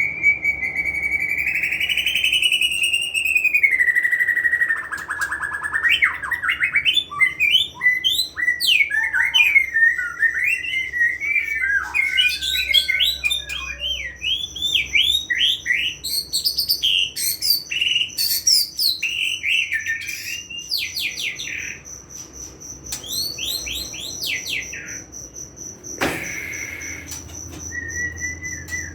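White-rumped shama singing a long, varied song of whistled glides and quick high notes, with a thin steady high tone underneath from about a quarter of the way in. There is a single sharp click near the end.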